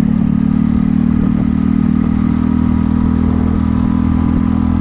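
Kymco People 250 scooter's single-cylinder four-stroke engine and exhaust running at a steady cruise while ridden, holding an even pitch. The exhaust leaks have been plugged with JB Weld high-heat epoxy, and the rider finds it the quietest it has ever been.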